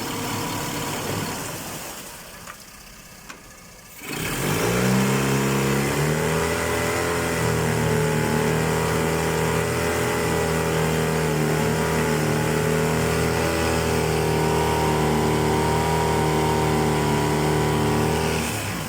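Yamaha F25A four-stroke outboard motor starting about four seconds in, its pitch rising briefly before it settles into steady running, then shutting off near the end.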